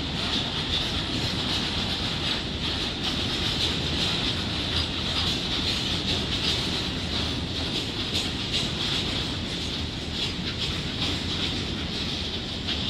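Freight train of tank wagons rolling past: a steady rumble of wheels on rail with a high hiss over it and faint scattered clacks.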